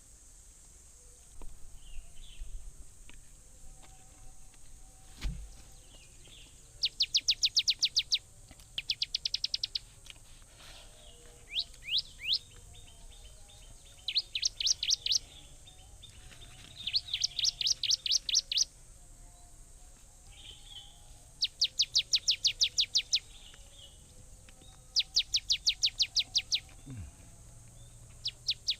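A bird singing: short fast trills of sharply falling high notes, about ten notes to a phrase, repeated every few seconds. A steady high hiss runs underneath.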